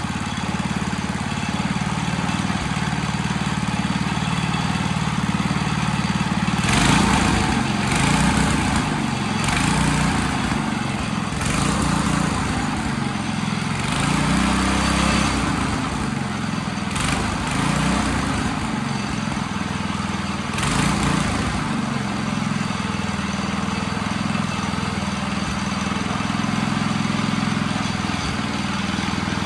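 A small gasoline engine running steadily, with louder stretches of wavering engine pitch about a quarter of the way in that settle back to a steady run near the end.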